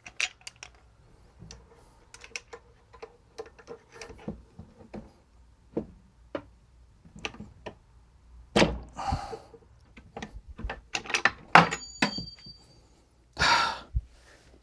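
Scattered clicks, taps and knocks of small tools and metal parts handled on a bench while a hydraulic disc brake caliper is taken apart. There are two short rustling noises and a brief metallic ring late on.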